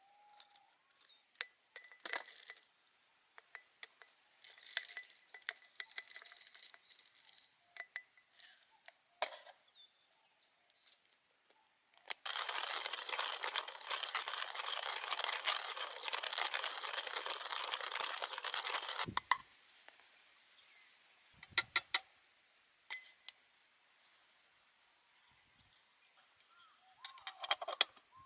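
Light clinks and clicks of small hard objects being handled, with a steady hiss lasting about seven seconds in the middle that cuts off sharply with a soft thump.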